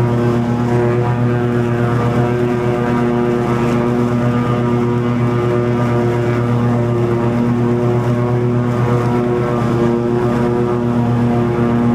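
Toro TimeCutter 50-inch zero-turn mower running steadily at mowing speed, its engine and blades cutting long grass in a loud, even hum.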